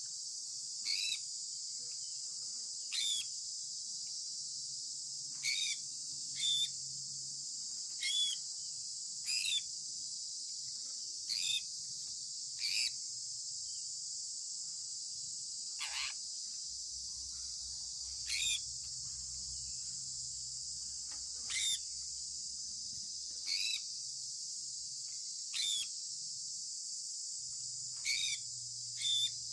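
Sun conure parrot giving short, sharp single chirps, now and then two close together, about every one to three seconds over a steady high-pitched hiss.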